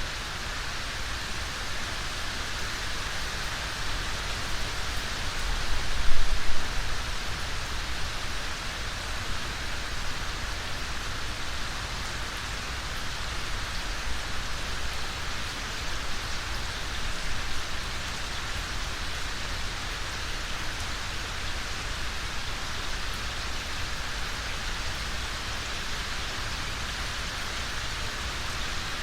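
Steady rainfall, an even hiss of rain. About six seconds in, a brief low rumble rises over it.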